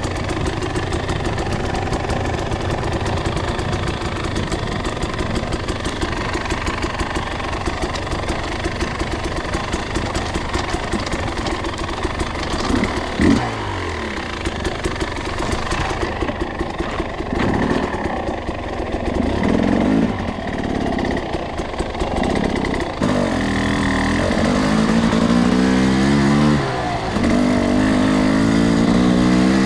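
Two-stroke enduro dirt bike engine ridden at low revs, short-shifted and pulling on its torque. The revs rise and fall in short pulls through the second half, loudest near the end.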